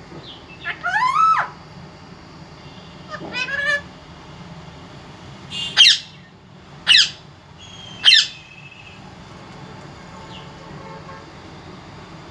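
Pet parrot squawking: five separate calls, a rising one near the start, another about three seconds in, then three short, sharp, loud squawks about a second apart.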